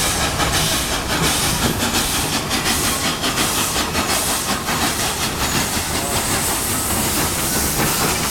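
Steam locomotive with a loud, steady hiss of steam over the noise of the train.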